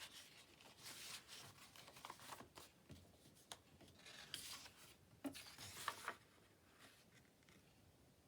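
Sheets of paper being handled and folded, faint rustling with a few light taps and ticks around the middle.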